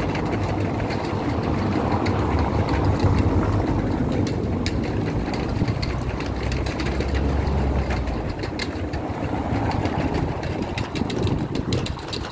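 A motor vehicle's engine running close by on the street, a steady low rumble that swells in the middle and eases toward the end.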